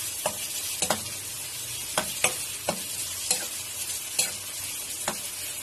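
Sliced onions and chillies sizzling in oil in a metal wok as they soften. A metal spoon stirs them, scraping and knocking against the pan about once a second.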